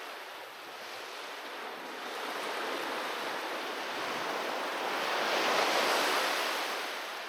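Ocean waves breaking and washing on a beach, a steady rush of surf that swells to one louder wave about five to six seconds in, then ebbs.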